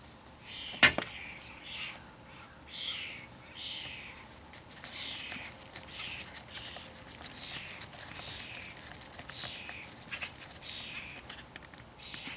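A bird calling over and over, short calls falling in pitch, roughly one a second. A sharp click sounds about a second in, with scattered light clicks throughout.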